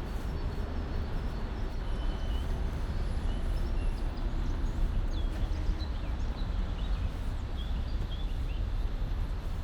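Small birds chirping in short, scattered calls over a steady low rumble, typical of distant city traffic.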